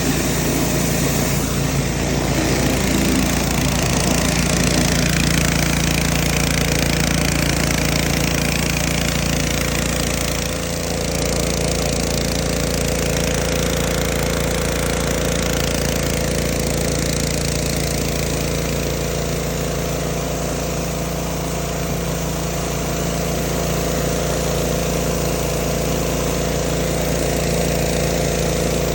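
A motor running steadily, a constant hum with a hiss over it, dipping briefly about ten seconds in.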